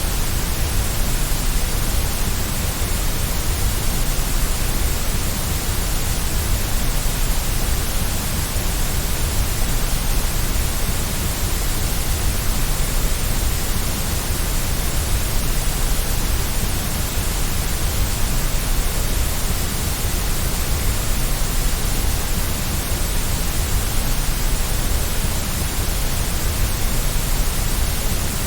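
Steady white noise: an even, unbroken hiss with a low rumble beneath, unchanging throughout.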